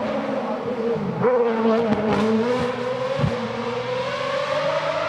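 Race car engine under hard acceleration, its pitch dipping briefly about a second in and then climbing steadily, with a few short sharp pops in the middle.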